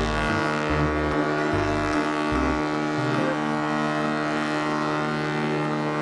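Ship's horn sounding one long, steady blast.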